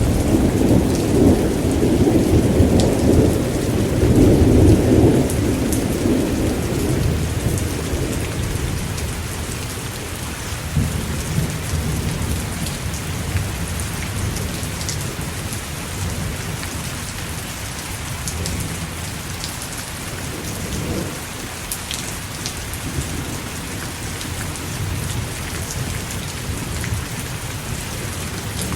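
Steady rain falling with a low rumble of thunder that fades away over the first several seconds, then fainter distant rumbles under the rain.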